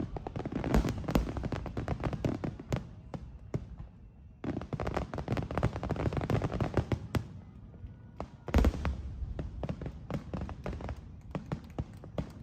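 Aerial fireworks crackling densely in two long runs, each followed by a lull. About eight and a half seconds in comes a single loud boom, followed by lighter crackling.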